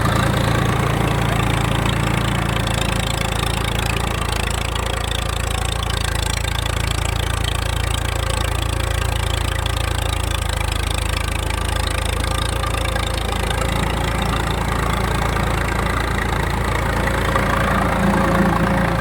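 Swaraj tractor's diesel engine running steadily at low revs, with a slight rise in loudness near the end.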